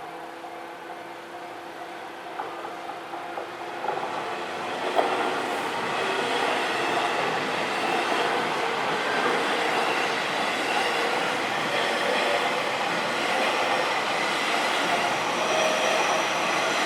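Level-crossing warning bells ringing, then a train passes through the crossing from about four seconds in. Its running noise and wheels on the rails build up and then hold steady and loud.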